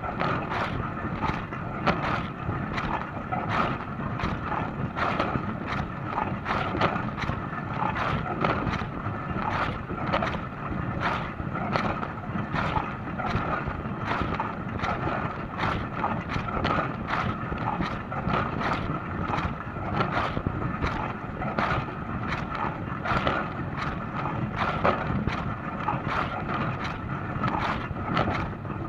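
Dishwasher running its wash cycle: a steady rush of spraying water with many short, irregular splashes against the dishes and the inside of the tub.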